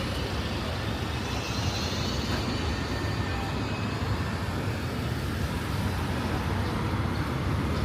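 Steady city street traffic noise, with vehicles passing.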